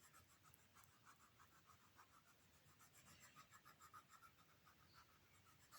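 Faint scratching of a colouring pencil or crayon being stroked back and forth on paper, about four or five quick strokes a second, as a small arrow is coloured in.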